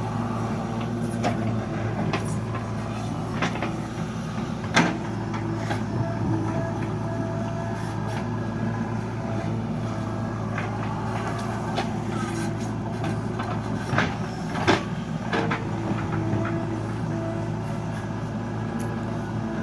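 Heavy diesel engine running steadily, with a few sharp clanks, the loudest about five seconds in and two more close together near the three-quarter mark.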